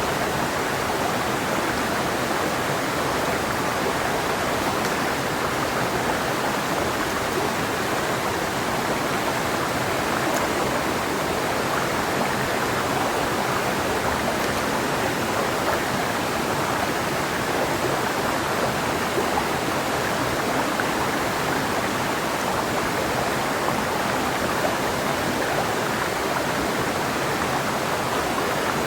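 Mountain river water rushing over rocks in a steady, even flow.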